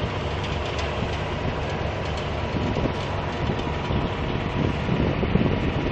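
Steady low mechanical rumble with rattling from heavy machinery running.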